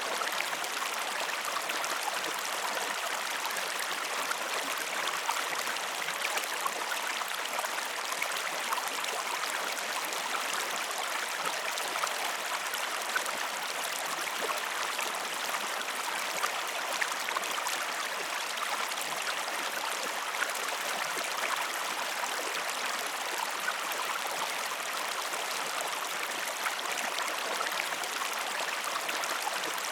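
Flowing stream water: a steady, unchanging rush with many small ticks of splashing.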